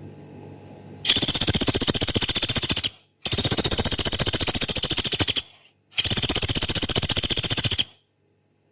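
Pelatuk beras woodpecker giving three long, harsh rattling trills of rapid, even notes, about fifteen a second, each lasting about two seconds with short gaps between, the first starting about a second in. This is the long harsh burst ('nembak panjang kasar') that bird keepers play as a model for songbirds.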